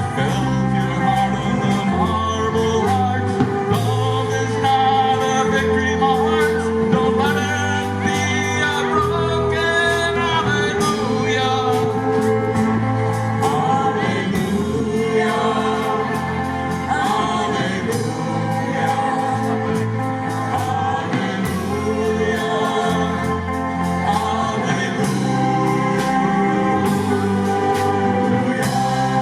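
Live band playing a song with a vocalist singing over sustained instruments and a steady drum beat.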